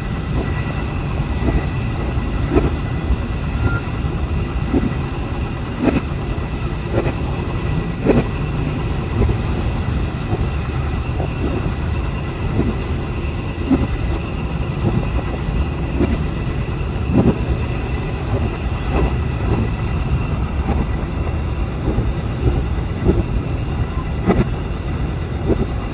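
Train running along the rails: a steady low rumble with uneven wheel clacks over the rail joints, about one a second.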